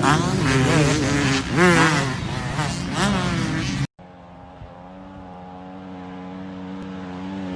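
Dirt bike engines revving hard, pitch swinging up and down with the throttle. About four seconds in, the sound cuts off abruptly. A steadier, quieter engine hum follows and grows gradually louder.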